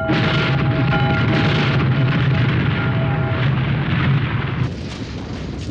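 Earthquake sound effect: a loud, continuous low rumble mixed with crashing noise. A steady tone of several pitches sounds over it for the first three seconds or so. The rumble eases a little near the end.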